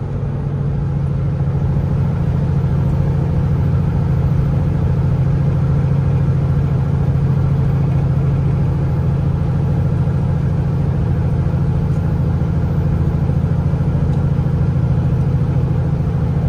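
Kenworth T680 semi truck's diesel engine running steadily on the road, heard from inside the cab as a deep, even drone.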